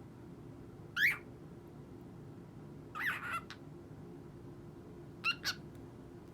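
Cockatiel giving three short chirping calls about two seconds apart, the last one a quick double chirp.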